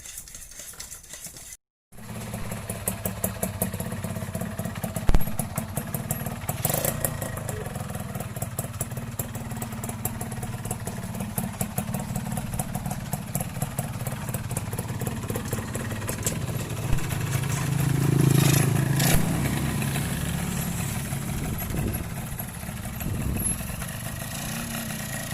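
A Yamaha F1Z R two-stroke engine, fitted in a Yamaha V80, running at a steady idle from about two seconds in and briefly revved up about eighteen seconds in.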